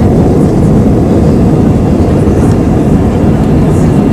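Loud, steady rumble inside the cabin of an Airbus A320 during takeoff, from the engines at takeoff power and the airliner rolling on the runway.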